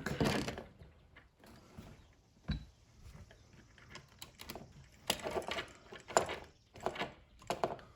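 Irregular clicks, rattles and rustles of hands handling a dimmer switch and its wires in a switch box while joining the black wires, with a single low knock about two and a half seconds in and a quicker run of clicks in the second half.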